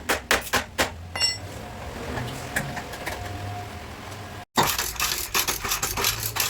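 Rapid light hammer taps on a car's sheet-metal body panel during dent repair, with a short metallic ring about a second in. A run of taps comes at the start, and dense fast tapping comes again after a brief cut about two-thirds of the way through.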